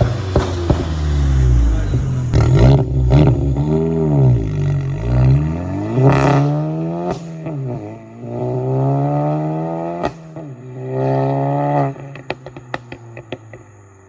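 Volkswagen Mk8 GTI's turbocharged 2.0-litre four-cylinder through an XForce valved catback and catless downpipe, revved up and down several times, then a longer climb in revs. Near the end, a run of sharp pops and crackles from the exhaust as the revs fall.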